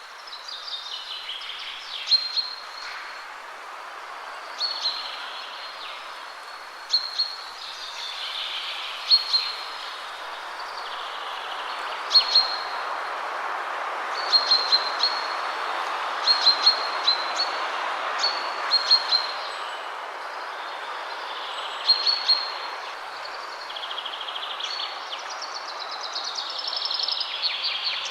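Wind rustling steadily through trees, swelling in the middle and easing again, with small songbirds giving short sharp high chirps every second or two and a longer warbling song phrase near the end.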